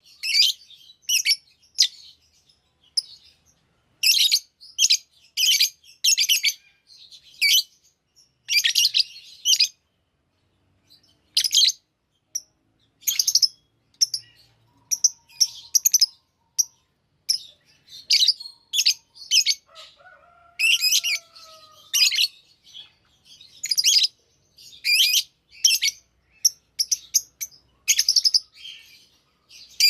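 Lovebirds chirping in short, sharp, high-pitched calls that come in irregular clusters with brief pauses between them.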